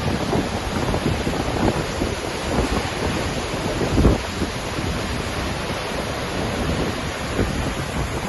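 Icelandic waterfall roaring steadily, with a louder surge or gust about four seconds in.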